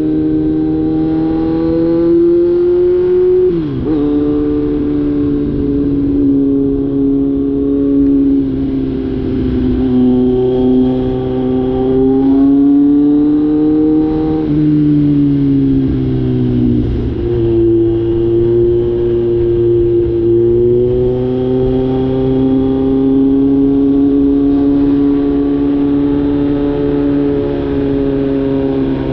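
Kawasaki Z900's inline-four engine with the catalytic converter deleted, running loud under way. The pitch climbs gently and drops sharply with gear changes about four seconds in and again around the middle.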